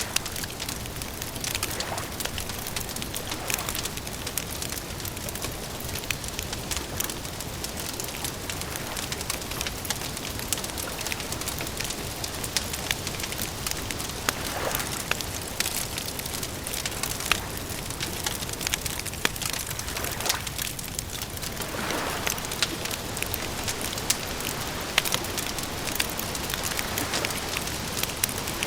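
Campfire crackling steadily, with frequent sharp pops and snaps of burning wood over a continuous hiss. A few soft swells of sound rise and fade in the background.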